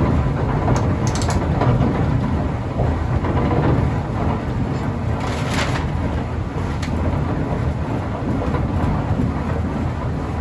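Watermill machinery running: a steady, heavy low rumble, with a few short knocks and clatters, about a second in and again around halfway.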